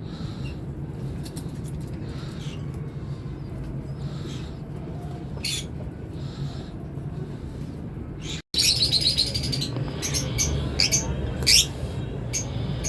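Caged birds chirping and calling over a steady low background rumble. The chirps are sparse at first, then after a brief break about two-thirds of the way through they come thicker and louder.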